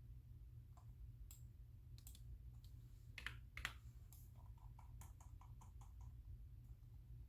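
Typing on a computer keyboard: scattered keystrokes, two sharper clicks a little past three seconds in, then a quick run of light keystrokes. Under it runs a faint, steady low hum.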